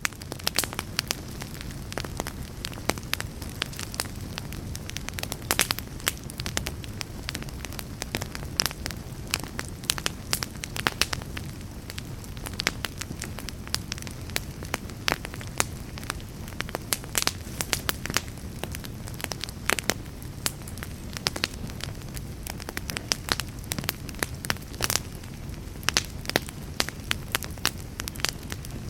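Wood fire in a fireplace crackling: frequent sharp, irregular pops and snaps over a steady low rumble of burning.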